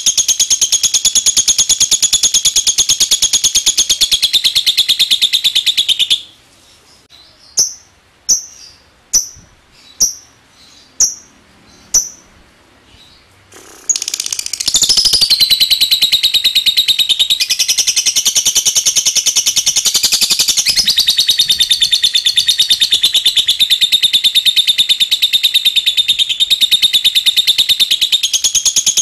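Lovebird giving its long, rapid, high-pitched chattering trill (ngekek). About six seconds in it breaks off to six single short chirps, then the long chatter resumes halfway through.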